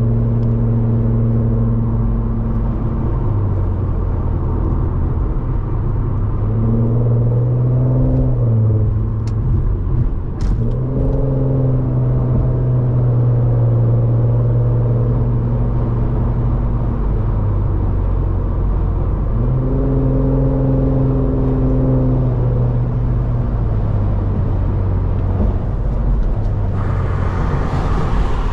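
Car engine heard from inside the cabin while driving. Its note holds steady, then drops and climbs again several times as the throttle changes.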